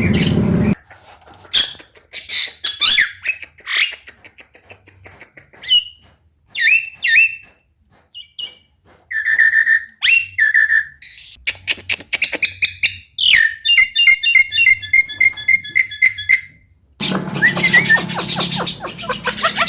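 Javan myna (jalak kebo) singing a varied chatter of whistles, chirps, clicks and squawky notes with short pauses between. A little past the middle it repeats one quick note phrase evenly for a few seconds, and near the end it breaks into a loud, dense run of chatter.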